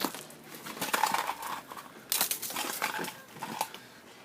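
Dogs barking in irregular bouts, around one second in and again from about two to three seconds in.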